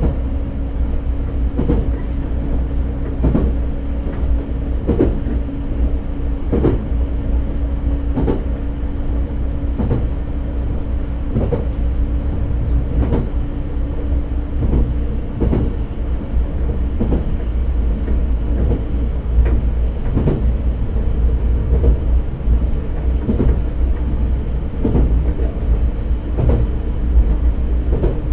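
Diesel railcar of the Akita Nairiku Jukan Railway running steadily along jointed track, with a constant low rumble and drone. Its wheels clack over rail joints about every second and a half.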